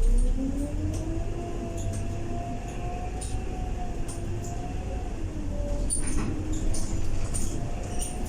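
Scania K230UB bus driveline under way, with its engine rumble and ZF 6HP504C automatic gearbox whine rising in pitch as it pulls away. The whine holds, dips briefly about six seconds in, then climbs again. Light rattles and clicks run through it.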